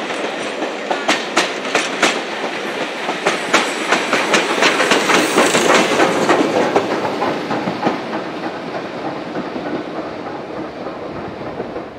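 A passenger train's coaches running past, their wheels clicking rapidly over rail joints under a steady rumble. It is loudest about halfway through, then fades as the train draws away.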